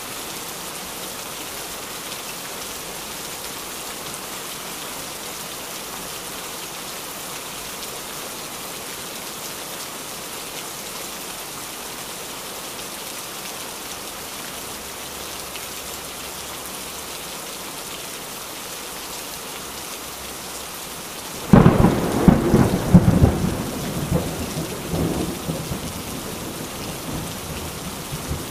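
Heavy rain falling steadily, then about three quarters of the way through a sudden close thunderclap that cracks loudly and rumbles away over several seconds.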